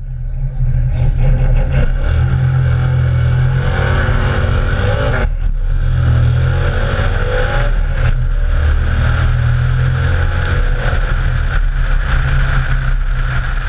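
Car engine running with a deep, steady low rumble as the car drives along the road, heard from a camera mounted low on the car's flank, with wind and road noise.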